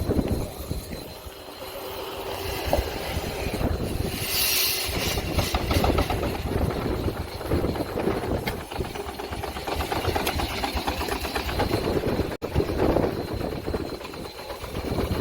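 Steam traction engine running, its mechanism beating in a fast, even rhythm, with a short burst of hiss about four seconds in.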